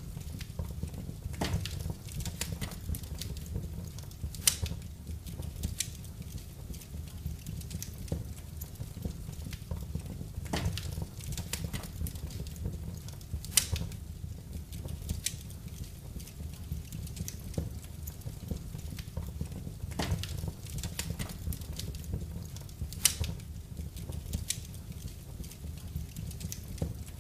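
Wood fire burning in a fireplace: irregular crackles and pops over a steady low rumble of the flames, with a few sharper snaps now and then.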